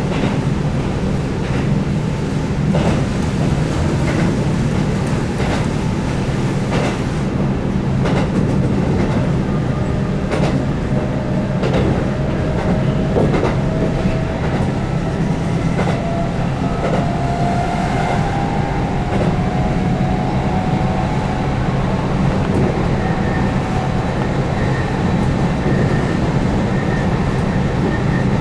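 Keihan 8000 series electric train running at speed: a steady low rumble with irregular clicks of the wheels over rail joints. Through the middle a faint whine from the DC traction motors rises slowly in pitch.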